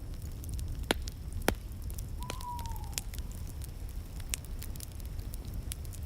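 Wood fire in a fireplace crackling over a steady low rumble, with two sharp pops about one and one and a half seconds in. A short faint whistling tone, falling slightly, sounds a little after two seconds.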